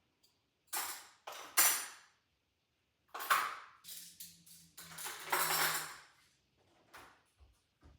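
Dishes and cutlery clinking and clattering in a run of short handling sounds over about five seconds, followed by one short click.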